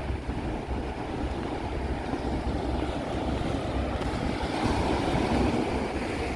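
Pacific Ocean surf washing onto a sandy beach, with wind rumbling on the microphone. A wave swells louder about four seconds in and eases off near the end.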